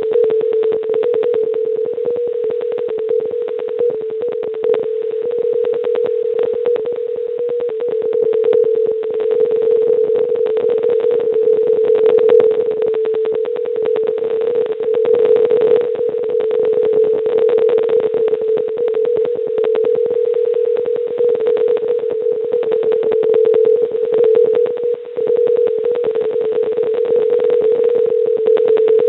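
A continuous steady telephone line tone held over an open phone line, with constant crackling clicks under it. It follows a failed call that the network recording has just reported as not completed.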